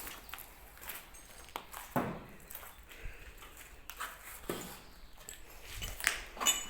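Scattered footsteps and scuffs on a debris-strewn floor, a few separate knocks a couple of seconds apart over faint room noise.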